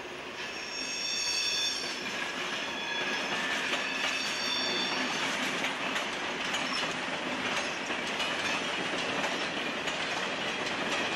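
Dutch mail train, a motor mail van hauling red PTT Post vans, rolling past over station trackwork with a steady rumble and the clatter of wheels over rail joints and points. High-pitched wheel squeal rings out twice in the first five seconds.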